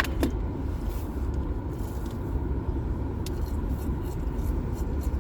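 Steady low rumble of road and engine noise inside a moving car's cabin, with a sharp click right at the start.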